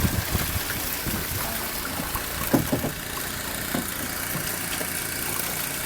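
An engine running steadily at idle, with a few short knocks or bumps over it.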